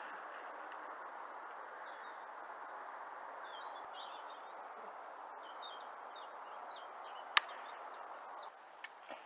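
Small birds chirping in short, scattered calls over a steady background noise, with one sharp click a little after seven seconds in.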